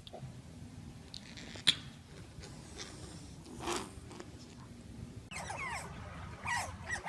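A group of otters calling, with several short, high, downward-sliding chirps close together in the last couple of seconds. Before them, only low background noise with a single sharp click about a second and a half in.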